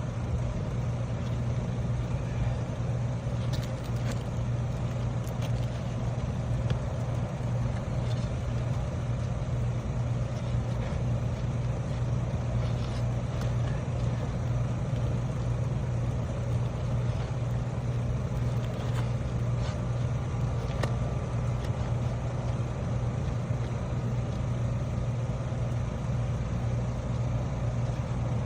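A steady low motor hum, like an engine idling, runs without change, with a few faint clicks here and there.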